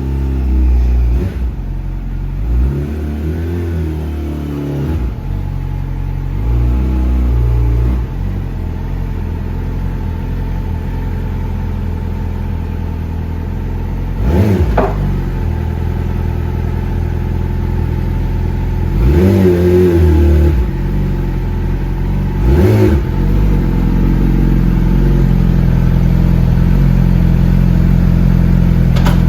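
Yamaha sportbike's inline-four engine running, idling and blipped: quick rev rises and falls about halfway through and again about two-thirds through, then a steady idle near the end.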